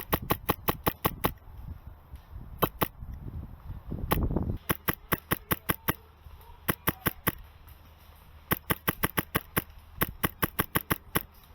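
Airsoft gun firing in rapid bursts of sharp cracks, several shots a second, a string of them every second or two with short pauses between, heard close up from the gun itself. A brief low rumble comes about four seconds in.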